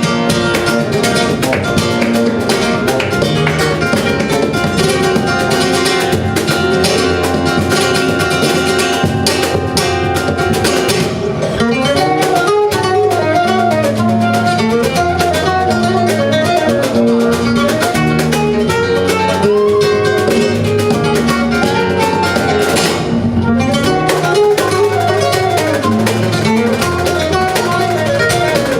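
Flamenco Spanish guitar music played live: plucked guitar melody over sustained bass notes, continuous throughout.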